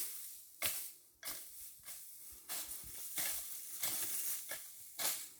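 Rustling and crunching in dry leaves and undergrowth: irregular scrapes with a few sharper crunches.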